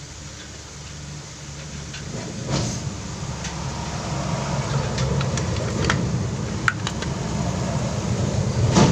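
Sharp metal clinks and knocks of engine parts being handled as a motorcycle crankshaft is fitted into its crankcase, the loudest near the end. They sit over a steady low rumble that grows louder in the first few seconds.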